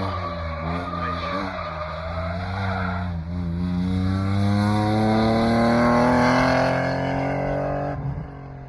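BMW drift car's engine revving hard with tyres skidding through a slide. The engine note wavers for the first few seconds, then climbs steadily under acceleration and drops away near the end.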